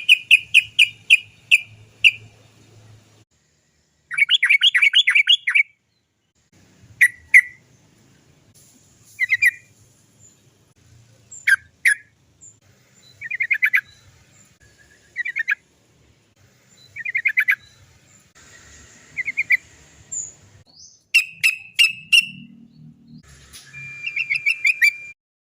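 Yellow-vented bulbul (trucukan) calling in repeated short phrases of rapid "cok cok cok" notes, some running into longer rolling trills, with pauses between phrases. This is a lure song used to set off caged trucukan singing.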